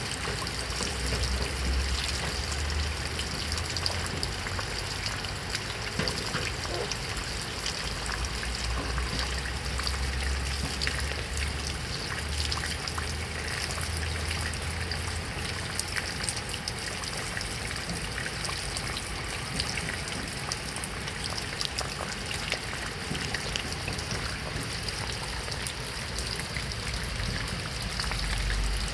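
Heavy rain falling steadily, a dense hiss full of individual drop ticks, with a low rumble of wind that swells and drops away several times.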